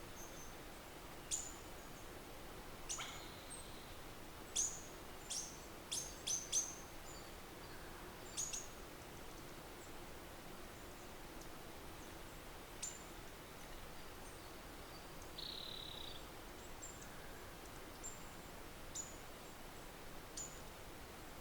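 Small birds chirping: short, high chirps every second or two, thickest in the first several seconds, with one longer note about fifteen seconds in, over faint steady outdoor background noise.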